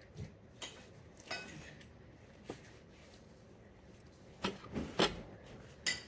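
Cutlery clinking and tapping on a plate during a meal: a few scattered clinks, then several close together near the end.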